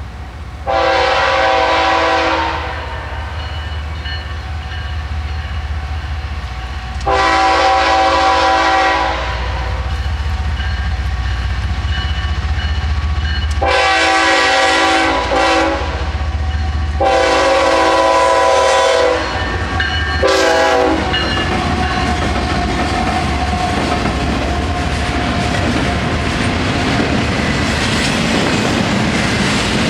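Freight train's diesel locomotives sounding a multi-note air horn: four long blasts and a short one, over a steady low engine rumble. From about two-thirds of the way through, the train passes close by with wheels clattering over the rail joints.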